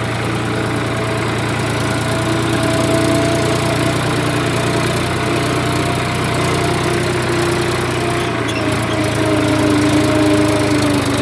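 Tractor engine running steadily at a low, even pace while pulling a trolley loaded with gravel.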